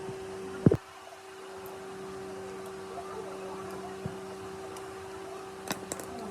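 Steady machine hum with one sharp knock just under a second in and a few short clicks near the end.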